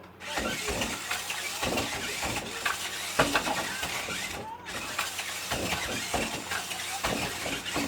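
Remote-control toy truck being driven: its small motor and gears running with repeated knocks and clattering as the truck bounces on its suspension.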